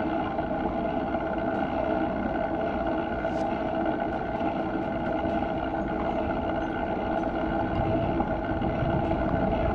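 Steady riding noise from a bicycle rolling along at even speed: tyres and drivetrain give a rumble with a constant hum, picked up close by a camera mounted low on the bike.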